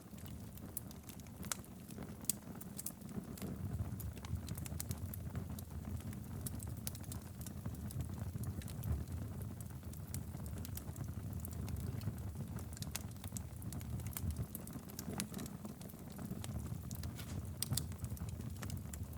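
Wood fire burning steadily in a fireplace: a low continuous rumble of flames with frequent irregular sharp crackles and pops.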